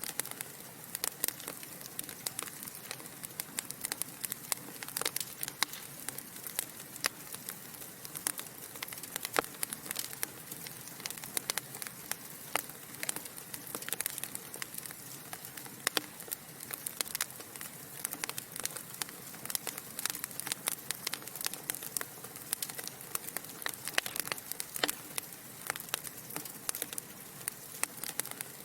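Wood fire burning in a fireplace, with a steady hiss and frequent irregular crackles and pops from the logs.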